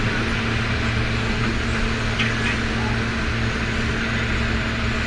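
Steady vehicle engine hum with road noise, unchanging throughout.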